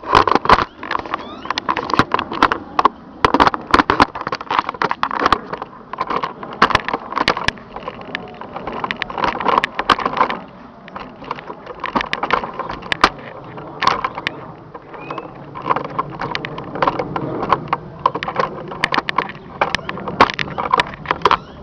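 Irregular knocking and clattering of things being handled and moved about, many sharp knocks close together.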